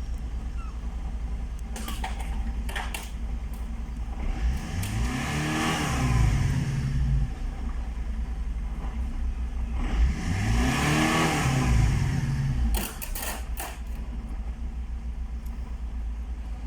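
Opel Astra H's 1.3 CDTi (Z13DTH) four-cylinder turbodiesel idling, then revved twice, each rev rising in pitch and falling back to a steady idle. A few short clicks are heard between them.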